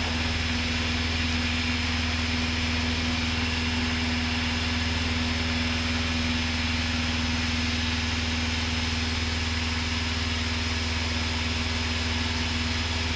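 Cessna 172's single piston engine and propeller at full takeoff power, a steady unchanging drone heard from inside the cockpit during the initial climb.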